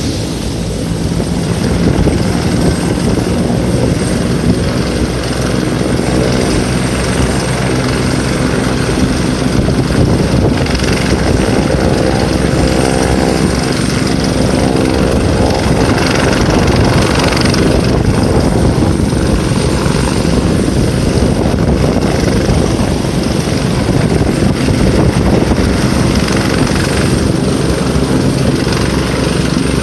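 Doctor helicopter's rotor and turbine engines running loud and steady, the rotor blades chopping evenly.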